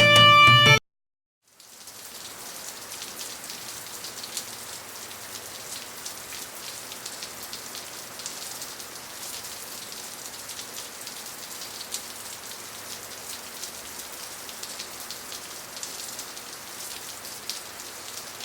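Background music cuts off under a second in; after a brief silence comes a steady rain-like pattering of falling water, an even hiss full of fine drips and splashes.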